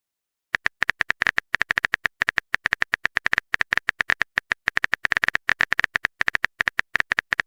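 Typing sound effect: a fast, uneven run of short identical clicks, about ten a second, as text is typed out letter by letter.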